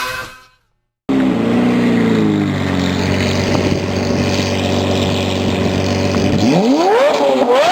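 A high-performance engine through an aftermarket exhaust: after a short cut-off sound and a moment of silence, it runs with a steady, deep note, then is blipped repeatedly from about six and a half seconds in, its pitch rising and falling with each rev.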